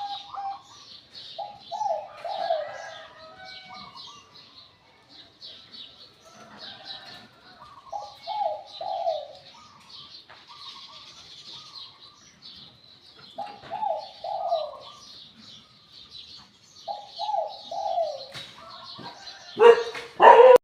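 Spotted dove of the 'Liu Tan' type cooing: four short cooing phrases, one about every five seconds, over steady high chirping of other small birds. Near the end there is a brief loud burst of noise.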